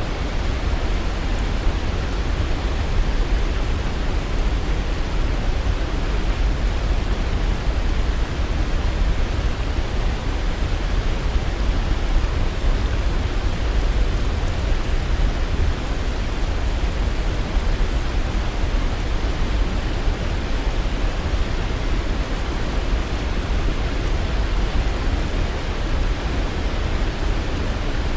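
Waterfall, a steady, unbroken rush of falling water, heaviest in the low end.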